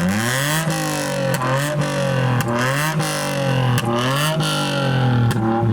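Small Toyota iQ car engine revved hard through side-exit exhaust pipes in repeated blips, the pitch climbing and falling about once a second, with short sharp cracks at the tops of the revs.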